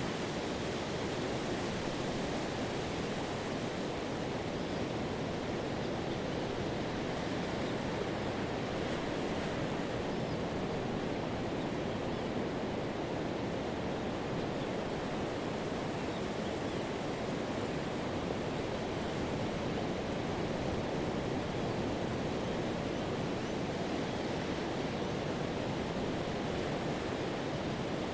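Pacific Ocean surf breaking on a sandy beach, with foam washing along the shoreline: a steady, even rush with no single wave standing out.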